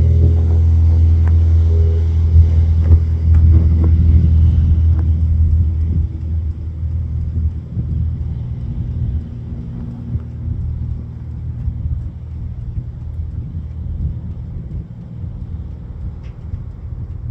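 Airplane engines rumbling on takeoff: loud at first, then dropping off about six seconds in and fading steadily as the plane climbs away.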